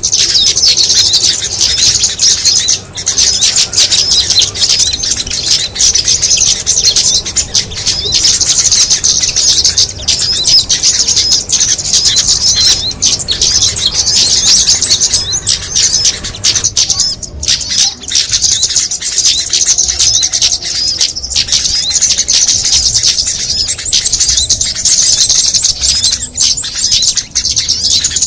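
Bird-lure recording of small songbirds: a dense, nonstop high-pitched twittering and chattering of many birds calling at once, with a couple of brief breaks partway through.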